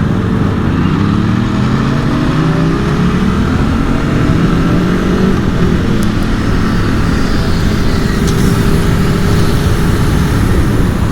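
Aprilia Tuono V4 motorcycle's V4 engine accelerating, its pitch rising steadily for about five seconds, then running at a steadier speed.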